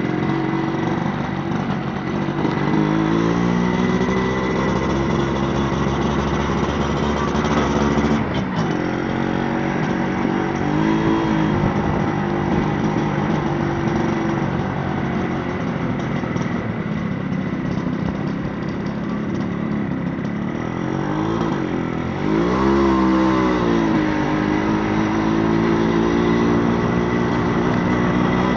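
Motorcycle engine running under way, heard from the pillion seat, its pitch rising and falling several times as the bike speeds up, slows and changes gear, over a low rumble of wind and road noise.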